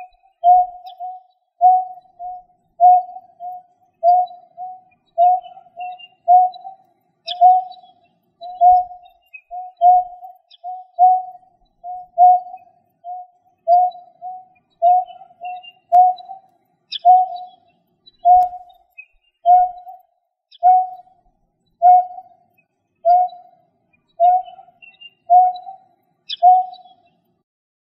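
Greater painted-snipe calling: a long, even series of short, low hooting notes, about two a second. Faint high chirps from other birds sound behind it.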